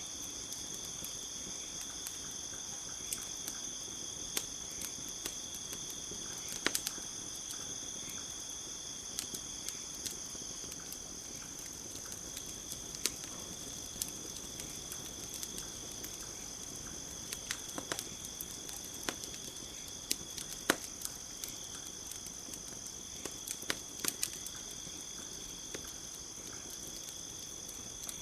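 Campfire crackling, with scattered sharp pops, the loudest about seven and twenty seconds in, over a steady high chorus of crickets.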